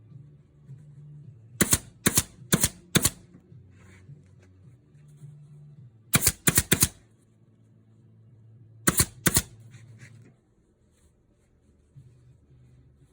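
Sharp, loud clacks in quick bursts: four, then four more, then two, over a low steady hum that stops about ten seconds in.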